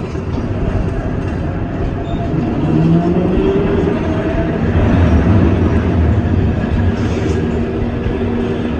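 NORTA 900 Series streetcar running along its rails, heard from inside the car: a steady rumble of wheels and running gear. A faint whining tone rises briefly partway through, and a steady tone comes in near the end.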